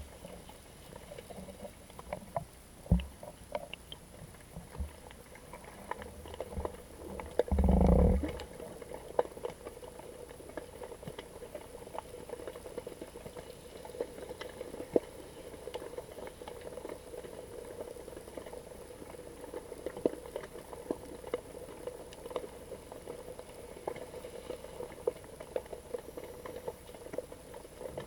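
Underwater sound heard through a GoPro camera's housing: a steady crackle of scattered small clicks and ticks, with one louder low rush lasting about half a second about eight seconds in.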